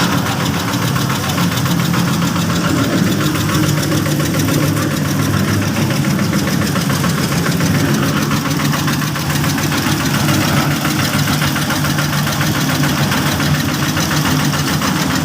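Small engine of a bored-pile rig running steadily at a constant speed, with a fast, even knocking beat.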